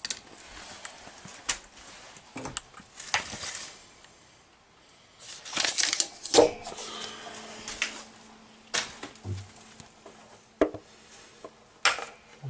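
Scattered clicks, knocks and rustling of objects being handled, with a denser, louder cluster of knocks around six seconds in.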